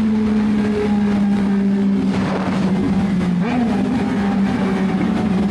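Yamaha MT-09's inline three-cylinder engine running under way, its note sinking slowly as the bike eases off, with a brief small rise and fall about three and a half seconds in.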